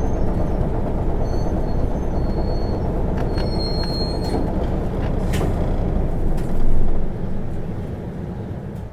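Isuzu Erga city bus (type PKG-LV234N2) running on the road, heard from inside the cabin: a steady drive rumble with thin high squeals a few seconds in. The running noise dies down over the last two seconds as the bus slows.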